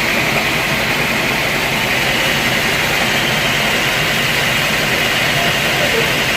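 Sawmill saw running steadily as it cuts a log: a loud, even machine noise with a high whine that edges up slightly in pitch about two seconds in.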